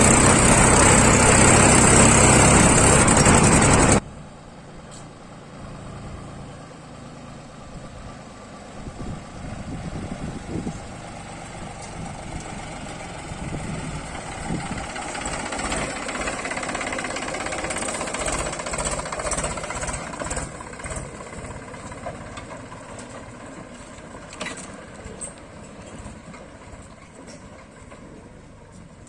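Heavy diesel engine running, loud and close for about the first four seconds. It then cuts suddenly to a quieter engine sound whose level rises and falls.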